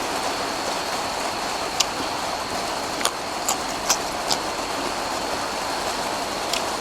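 Steady rain falling as an even hiss, with several short sharp clicks in the middle of the stretch.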